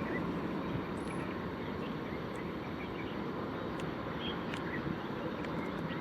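Steady low rumble of a passing freight train's covered wagons, slowly easing off, with a few faint bird chirps over it.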